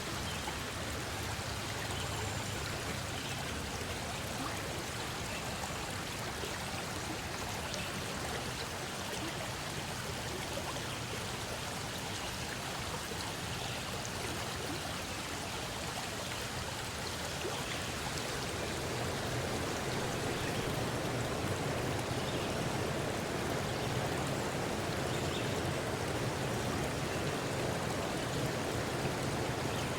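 Running water of a stream: a steady rushing flow that grows fuller and a little louder about two-thirds of the way through.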